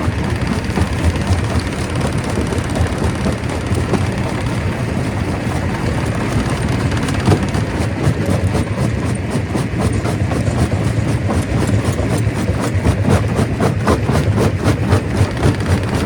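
Stone crusher running under load: a steady heavy mechanical din with rapid, continual knocking and clatter of rock being broken, the knocks getting stronger in the second half.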